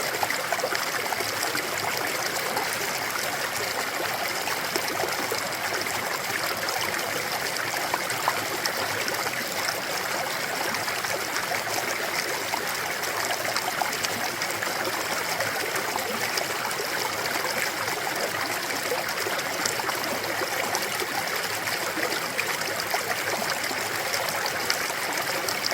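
Clear mountain valley stream flowing, a steady, even rushing babble of water.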